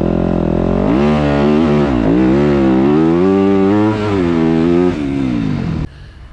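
Dirt bike engine revving hard as it rides the course, its pitch climbing and dropping several times with throttle and gear changes, then cutting off abruptly near the end.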